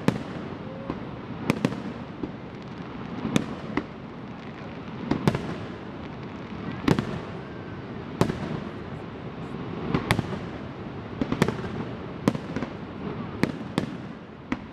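Aerial fireworks shells bursting, about a dozen sharp bangs spaced a second or so apart, each followed by a short echo.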